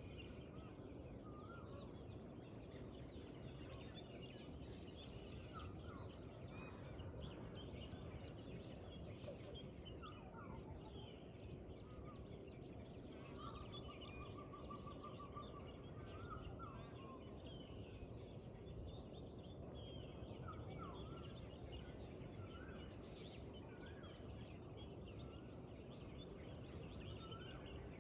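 Morning forest ambience: many small songbirds chirping and singing, with a short trill about halfway through, over a steady high-pitched buzz and a low background rumble.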